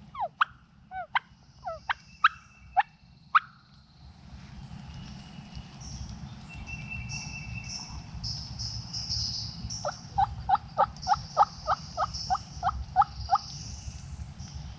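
Wild turkey calling: a quick, irregular string of sharp notes in the first few seconds, then, about ten seconds in, a steady run of about a dozen evenly spaced notes. Songbirds sing thinly higher up.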